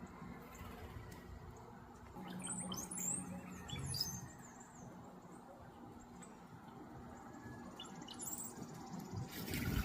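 Small songbirds chirping in short, sliding high notes, a burst of calls a couple of seconds in and more near the end. A brief loud noise comes at the very end.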